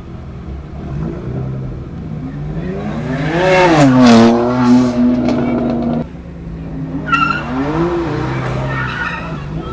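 Sports-car engine and exhaust under hard acceleration: the pitch climbs and peaks about three and a half seconds in, holds steady, then cuts off suddenly about six seconds in as the throttle closes. It then climbs again, with a sharp crack about seven seconds in.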